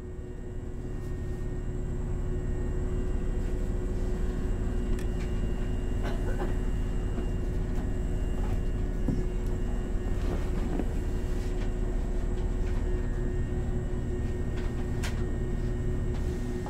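Hankyu 3000 series electric train: a steady hum with a low rumble and no rising acceleration tone, with a few faint clicks and voices in the background.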